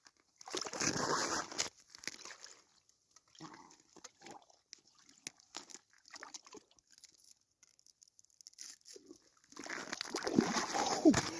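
Water sloshing and ice crunching at an ice-fishing hole: a loud burst near the start, scattered small knocks and splashes, and a longer stretch of sloshing near the end.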